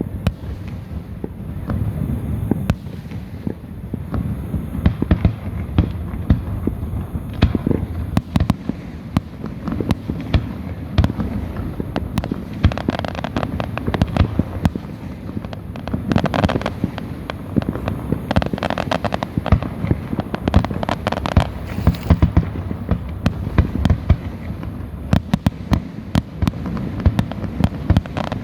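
Fireworks display: a steady run of bangs and booms from aerial shells, with spells of crackling bursts.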